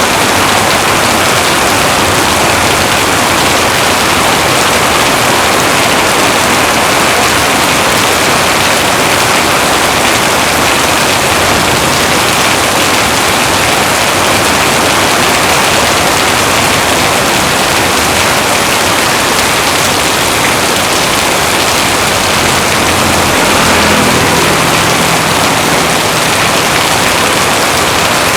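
Heavy rain pouring steadily, a dense even hiss, with a brief low swell a few seconds before the end.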